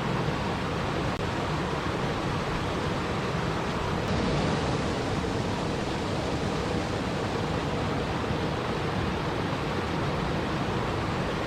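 Steady, even rush of water, continuous and unchanging.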